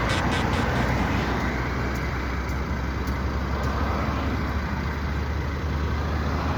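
Heavy vehicle's engine running steadily with a low hum, under an even hiss of road and rain noise and a few faint clicks.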